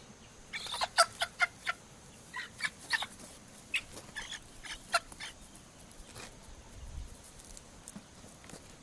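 A chicken clucking: a quick run of short, sharp clucks for the first five seconds or so, then it goes quiet.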